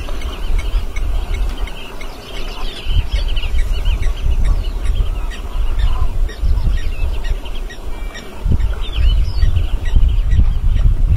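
Many birds chirping and calling, short quick notes throughout, over a loud uneven low rumble.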